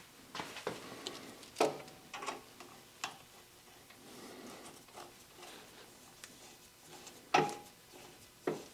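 Irregular knocks and clicks of hydraulic hoses and metal fittings being handled, the loudest about one and a half seconds in and again near the end, one of them with a brief metallic ring.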